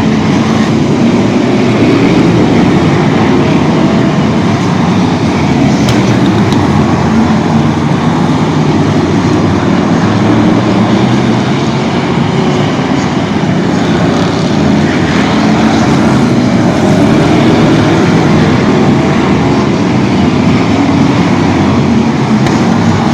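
A vehicle running steadily, a continuous loud engine and road rumble with no sharp breaks.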